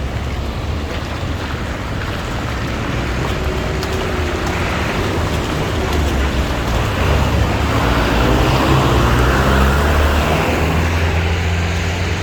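Motor traffic on a rain-wet street: a steady hiss of engines and tyres, with one vehicle growing louder and passing close about eight to ten seconds in, then fading.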